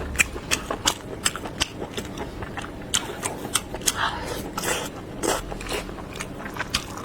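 Close-miked wet chewing of soft, chewy braised wheat-gluten strips and pork in sauce, with many quick irregular mouth clicks and smacks.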